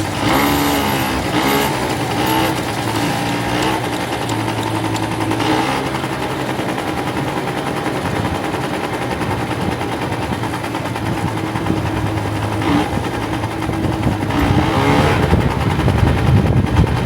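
Vehicle engine running steadily, its pitch rising and falling near the start and again near the end.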